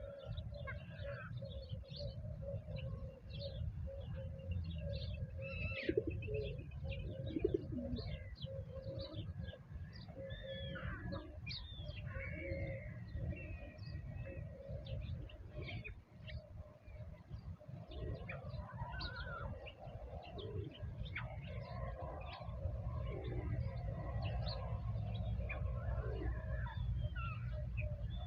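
Outdoor birdsong: many birds giving short chirps and quick rising and falling notes, with lower calls running underneath, over a steady low rumble that grows slightly louder near the end.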